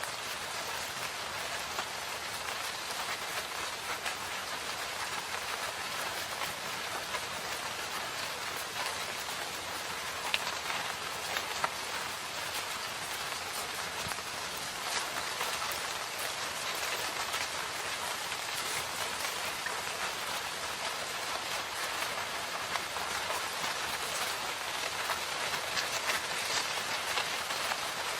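Steady rain falling in a forest: a dense, even hiss of drops, with a couple of sharper drop ticks about ten and twelve seconds in.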